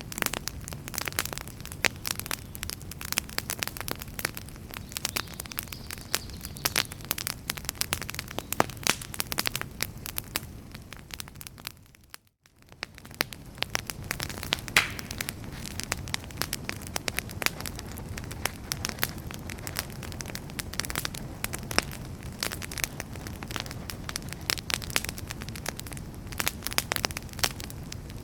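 Wood fire crackling, with dense irregular pops and snaps over a steady low rustle of flames. About eleven seconds in the sound fades down to near silence, then fades back up a second or so later and carries on as before.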